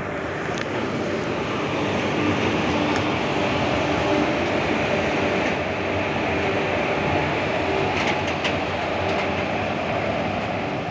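Indian Railways passenger train pulled by an electric locomotive rolling past along the platform: a steady rumble of steel wheels on the rails with a low hum, and a few sharp metallic clicks about a second in and again around eight seconds in.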